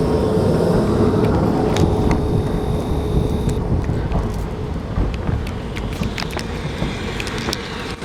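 South Western Railway Class 455 electric multiple unit running, a low rumble with a steady hum through the first half and sharp clicks coming more often in the second half.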